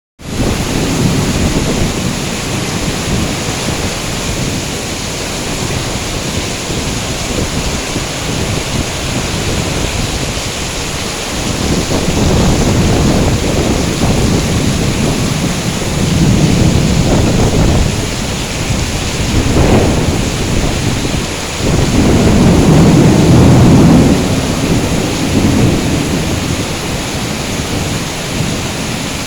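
Heavy rain pouring steadily, with thunder rumbling again and again in long low swells, the loudest rolling a bit over two thirds of the way through.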